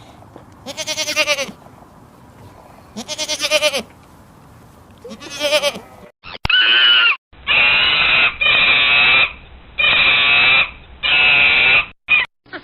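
Animal calls: three quavering bleat-like calls about two seconds apart, then, after an abrupt change, a louder series of four long, harsher calls from a different recording.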